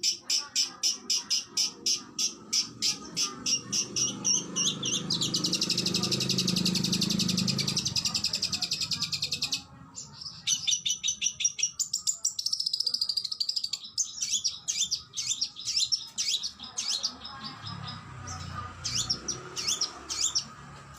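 Oriental magpie-robin (kacer) singing: a fast series of sharp, repeated high notes, then a dense rapid trill for a few seconds, a short break about ten seconds in, and then a mix of whistles and quick chips that thins out near the end.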